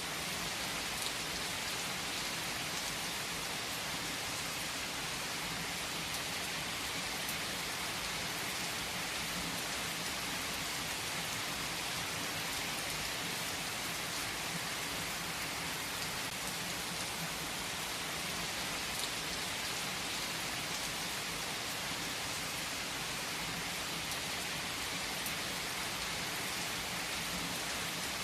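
Steady rain falling on a surface: an even, continuous hiss with a few faint drop ticks and no thunder.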